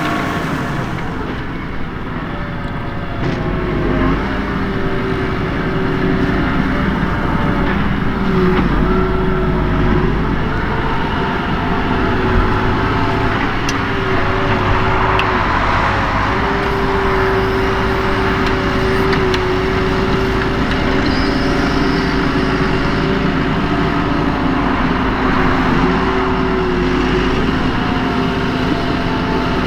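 New Holland T7.245's six-cylinder NEF diesel engine working under load, pulling a five-furrow plough through the ground. The engine note is steady and loud, its pitch dipping and recovering slightly as the load changes.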